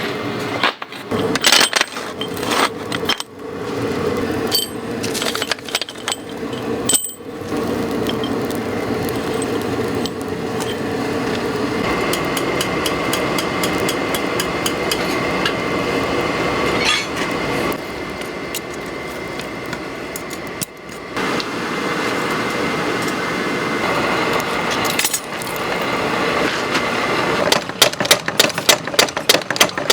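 Workshop machinery running steadily, with scattered metal clanks and strikes. Near the end comes a fast, even run of repeated metal blows, several a second, like a mechanical forging hammer working hot steel.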